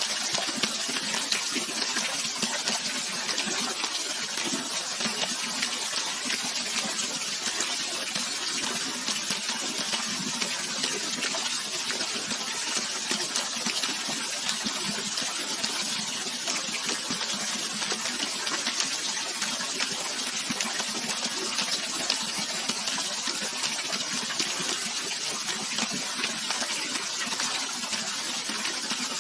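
Running water splashing steadily, a continuous bright hiss of many small splashes with little low rumble.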